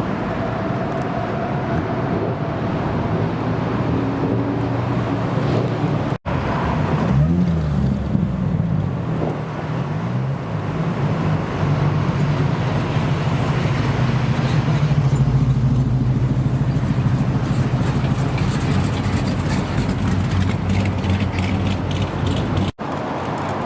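American muscle car engines idling with a deep, steady note, with a few quick revs rising and falling about seven to ten seconds in. The sound breaks off abruptly twice, at cuts between clips.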